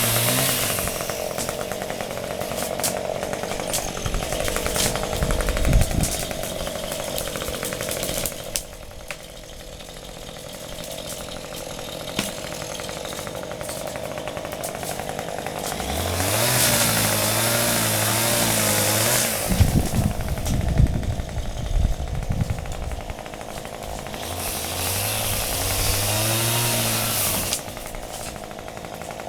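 Chainsaw revving up to full throttle and holding three times, at the start, about halfway and near the end, and dropping back to a lower run in between. A few heavy low thuds come about a fifth of the way in and again just after the middle burst.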